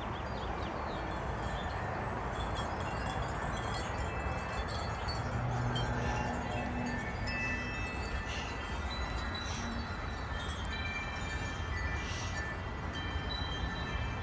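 Several large tuned wind chimes ringing in a gust of wind, their overlapping tones building up a few seconds in, over a steady rush of wind.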